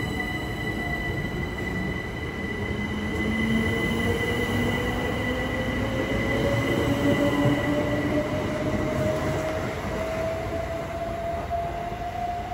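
Train running through the station, its motor whine rising steadily in pitch as it gathers speed, over a steady high-pitched whine and wheel and rail rumble.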